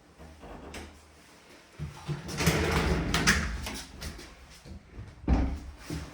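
A door or drawer in a room sliding along its track for over a second, then a single thud about five seconds in.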